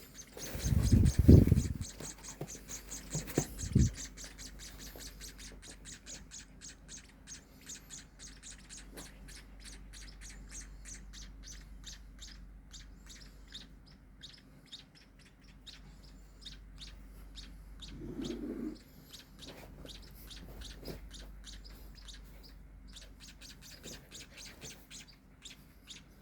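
Nestling munias (pipit/emprit) chirping rapidly and continuously in high, short peeps, several a second, the begging calls of baby birds at feeding time. A few loud bumps sound near the start and again at about four seconds.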